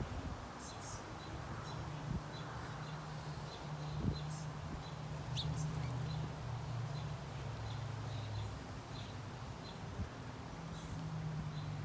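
Small birds chirping in short, scattered calls, over a low steady hum.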